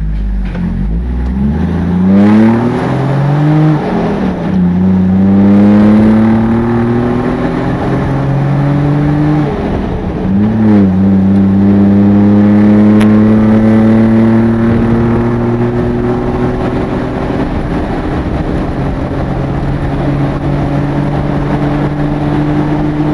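Vehicle engine pulling away and accelerating through the gears. Its pitch climbs and drops back at gear changes about 4 and 10 seconds in, then rises slowly and settles into a steady cruise.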